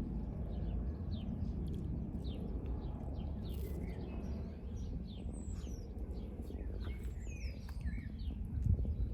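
Small songbirds chirping, a quick run of short repeated notes a few times a second with some higher sliding calls midway, over a loud low rumble of wind on the microphone.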